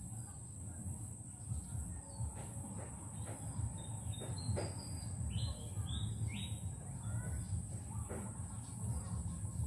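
Outdoor ambience: a bird gives three or four short chirping notes about halfway through, over a steady high-pitched insect drone and a low rumble.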